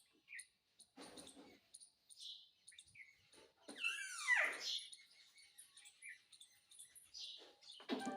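Pet parrot making soft chirps and clicks, with one louder call about four seconds in that slides down in pitch.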